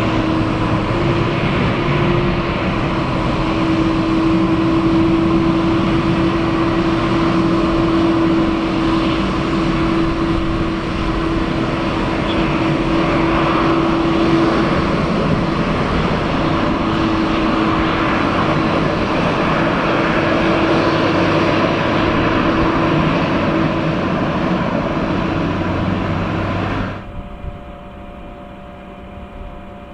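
Boeing 767-300ER twin-engine jet airliner's engines running loud and steady, with a steady whine through the noise. Near the end it cuts off suddenly to a much quieter, steady hum.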